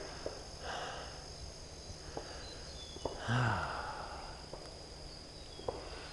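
Insects buzzing steadily in woodland, with two soft rustling footsteps through brush, about a second in and just past three seconds, and a brief low grunt just after three seconds.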